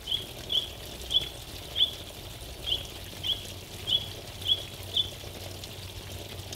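A small bird chirping: nine short, high chirps, evenly spaced a little over half a second apart, stopping about five seconds in.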